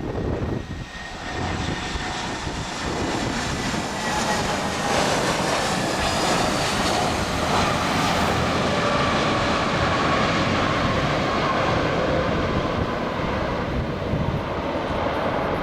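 Jet airliner's engines passing close by on its landing approach: a dense rushing noise that swells over the first few seconds and then holds loud, with a thin engine whine gliding down in pitch midway.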